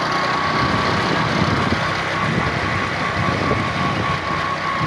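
A vehicle running steadily, with engine and road rumble and a constant high whine throughout.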